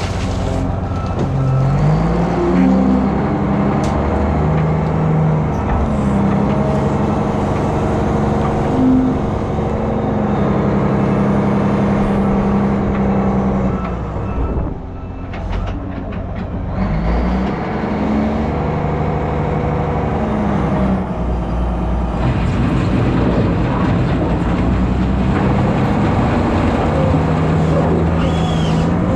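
Heavy diesel engine running under load, its pitch climbing and dropping back again and again.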